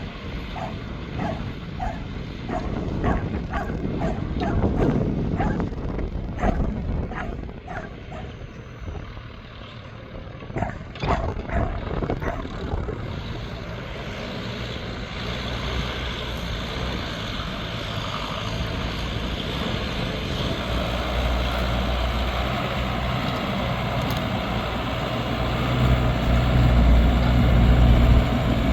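A dog barks in quick repeated yelps, about two a second, for the first dozen seconds. After that a New Holland TL100 tractor engine works steadily under plowing load and grows louder and deeper toward the end.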